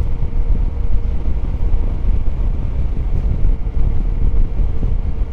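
Yamaha Ténéré 700 parallel-twin motorcycle being ridden along the road, a steady low rumble of wind and engine with a faint steady hum.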